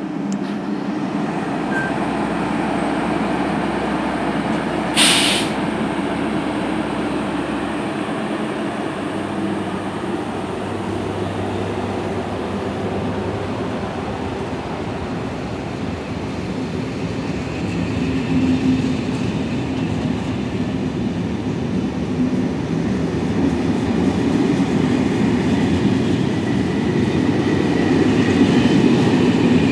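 SNCF BB 7200-class electric locomotive hauling Corail coaches past at a steady pace. The running noise of coach wheels on the rails grows louder toward the end, and there is one brief, sharp noise about five seconds in.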